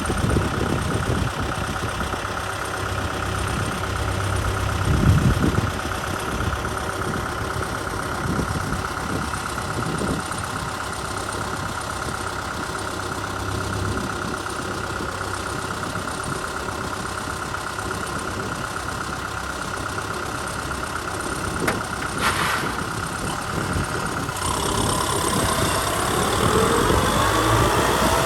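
Kubota M6040 SU tractor's diesel engine running steadily under load while plowing, with a steady whine over the engine drone. Near the end the pitch begins to waver up and down.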